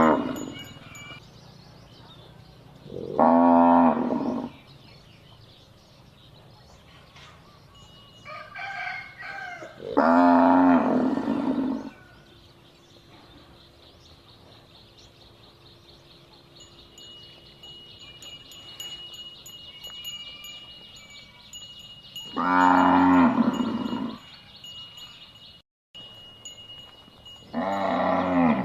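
Cattle mooing: four long, loud moos spaced several seconds apart, with a shorter, weaker call between the first two. A faint steady high-pitched tone runs underneath between the calls.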